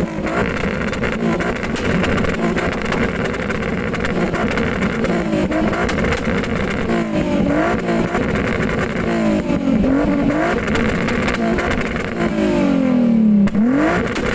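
Car engine revved hard through its exhaust, over and over, the pitch climbing and falling back, with a long climb near the end that drops off sharply. The revving is being done for an exhaust sound-level measurement.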